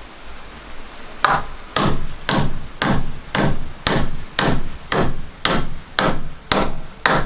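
A hammer striking steadily, about two blows a second, beginning about a second in; each blow has a short metallic ring, as of a hammer driving a nail into the wooden railing.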